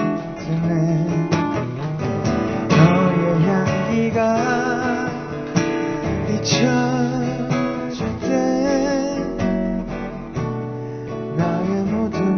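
Live acoustic guitar strumming under a singer performing a cover song, with wavering held notes in the voice.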